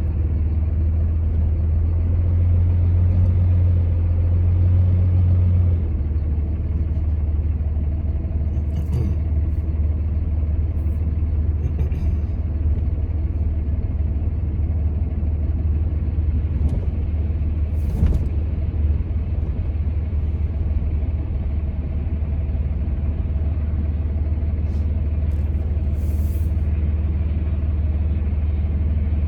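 Steady low rumble of a truck being driven, engine and road noise heard from inside the cab. The engine note steps down about six seconds in, then holds steady, with a few faint ticks.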